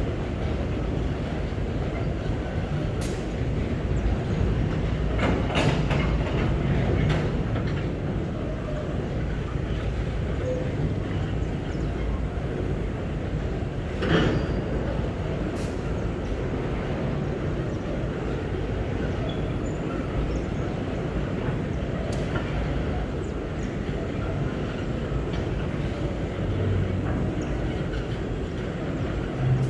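Long empty ore train of GDT hopper wagons rolling by at low speed, a steady rumble of wheels on rail with scattered metallic knocks and clanks.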